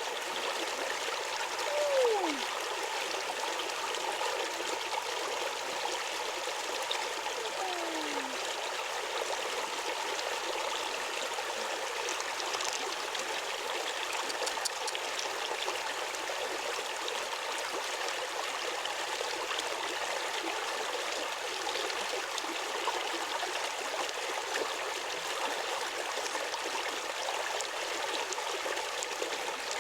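Water running steadily, like a stream, with two short falling whistle-like tones about two and eight seconds in.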